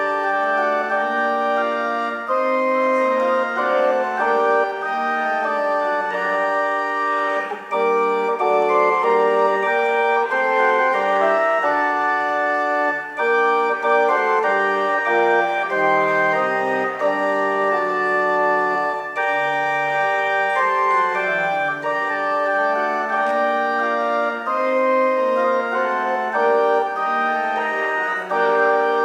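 Church organ playing sustained chords that change every second or so, with no singing.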